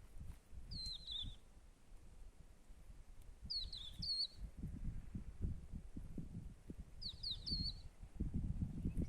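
A bird calling three times, each call a short group of high, falling chirp notes, about three seconds apart, over a low rumbling noise.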